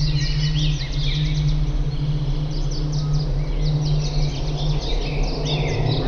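Several wild birds chirping and calling together: rapid short chirps and curving whistled notes, over a steady low hum.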